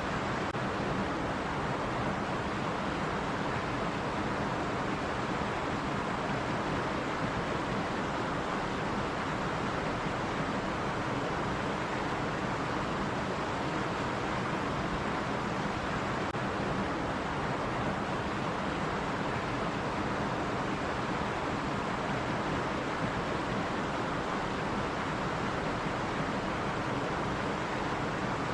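Running stream: water flowing in a steady, even rush that does not change.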